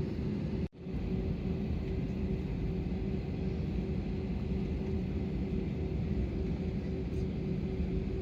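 Airbus A320 cabin noise while taxiing after landing: a steady rumble of the idling engines and air system, with a steady hum over it. The sound drops out briefly near the start.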